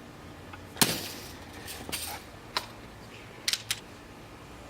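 Red Ryder lever-action spring-air BB gun fired once about a second in, a sharp snap with a short tail, followed by a few lighter clicks, two of them close together past the middle.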